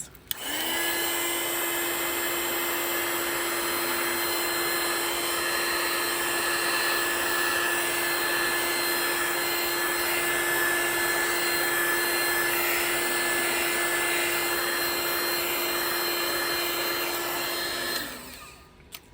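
Handheld hot-air blower running steadily, a rushing air noise over a constant motor hum, switched on just after the start and off about a second before the end. It is blowing white resin across a coaster to spread it into wave lacing.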